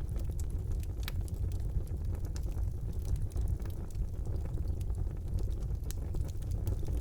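Wood fire burning in a fireplace: a steady low rumble of flames with frequent sharp crackles and pops from the burning logs, one louder pop about a second in.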